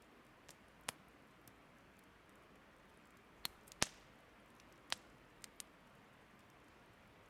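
Burning firewood crackling: irregular sharp pops, the loudest about four seconds in, over a faint steady hiss.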